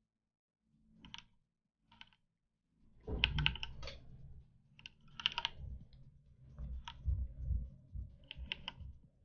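Computer keyboard typing and clicking in short scattered runs, with a low rumble under the clicks from about three seconds in.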